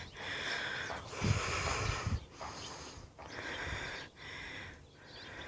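A person's breathing close to the microphone, coming in repeated short rushes of air, with a couple of low thumps from handling.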